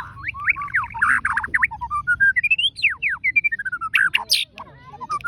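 White-rumped shama (murai batu) singing a fast, varied song of clear whistled notes, quick up-and-down slurs and trills, with a long rising whistle about two seconds in.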